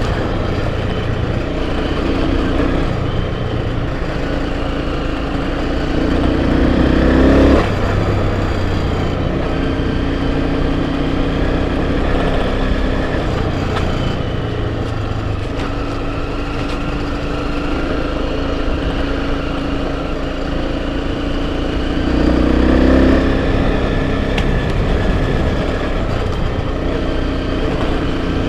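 Enduro dirt-bike engine running under way, pulling harder twice: about a quarter of the way in, where the throttle is then shut off sharply, and again near the end.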